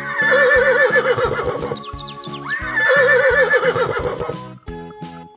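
A horse whinnying twice, each neigh a long wavering call of nearly two seconds that trails off, over background music with a steady beat.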